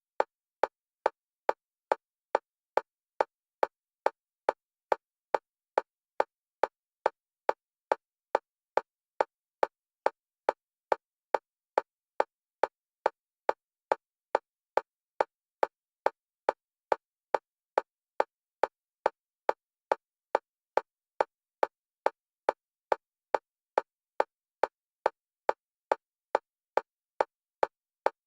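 Metronome clicks of a single pitch at a fast, perfectly even pace of about two and a half a second, alternating between left and right stereo channels: a bilateral stimulation track for EMDR.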